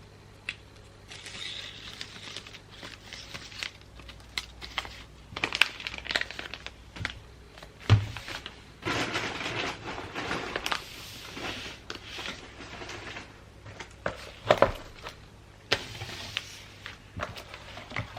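Wrapping paper crinkling and rustling as a gift is wrapped by hand, with many sharp clicks and a louder knock about eight seconds in and another a little before the end.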